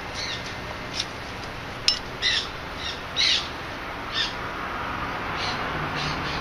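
A bird calling in short, high chirps about once a second, over steady background noise, with one sharp click just before two seconds in.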